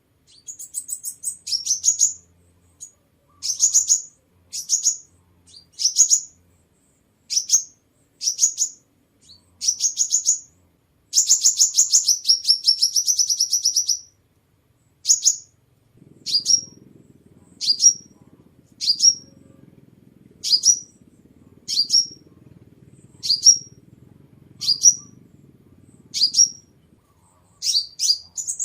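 Sunbird calling: a series of short, sharp, high chirps, roughly one a second, with a longer rapid trill about eleven seconds in.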